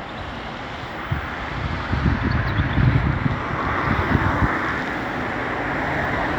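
Wind buffeting the microphone: a steady rushing noise with irregular low thumps from gusts, strongest about one to four and a half seconds in.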